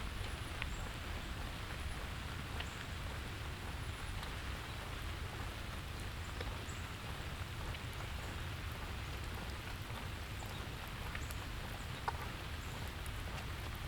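Steady rain falling, with scattered individual drops tapping on surfaces and one sharper drip about twelve seconds in, over a low steady rumble.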